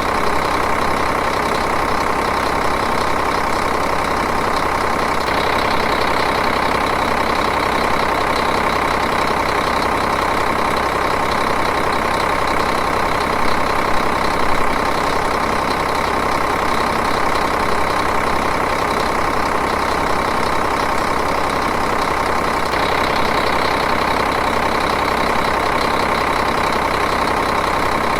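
Diesel engine idling steadily with an even, rapid chug.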